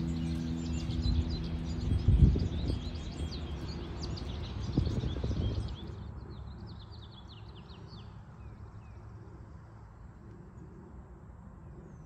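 Many songbirds chirping and singing together, thinning to a single bird's song after about six seconds. Underneath runs a low steady hum that stops about three seconds in, and two heavy low thuds about two and five seconds in are the loudest sounds.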